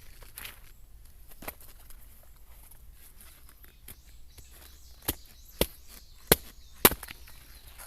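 Firewood being split: sharp woody knocks, one about a second and a half in, then four more in quick succession near the end, the last two loudest.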